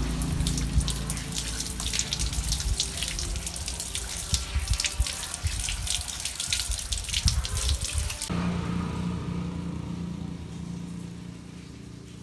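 Water running and splashing, like a tap into a sink, with many small splashes. It stops abruptly about eight seconds in, leaving a fainter steady low hum that fades.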